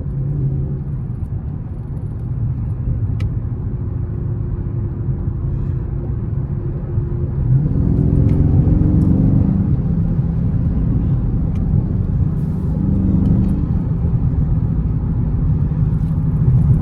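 Dodge Charger Scat Pack's 6.4-litre 392 HEMI V8 running while driving, a steady low rumble that rises in pitch and gets louder about halfway through as the car picks up speed, then holds.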